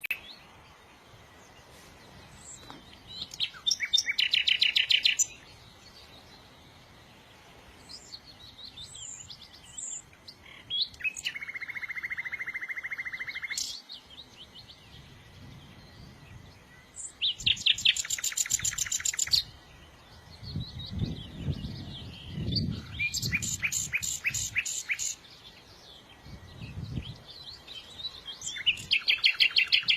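A songbird singing loud, rapid trilled phrases about every five or six seconds, one of them a buzzy, even trill, with softer chirps between. A low rumble runs underneath for several seconds in the second half.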